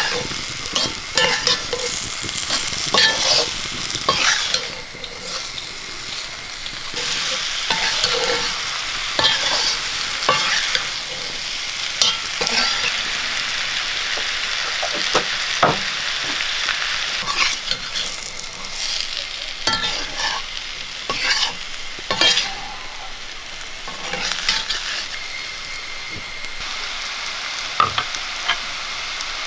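Raw mango slices coated in chilli, salt and fenugreek-mustard masala sizzling in oil in a black iron kadai, with a spatula scraping and stirring them around the pan in irregular strokes.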